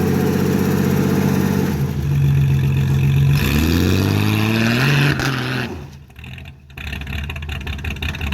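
Carburetted engine running, its revs climbing about three seconds in, then dying away and cutting out about six seconds in, with a quieter, rougher running sound returning a second later. The stumble is put down to the carburettor not liking being on an angle.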